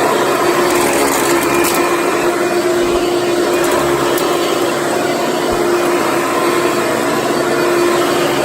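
Hoover Convertible Soft & Light upright vacuum cleaner running steadily on carpet, a constant motor hum with one held tone over an even rush of air.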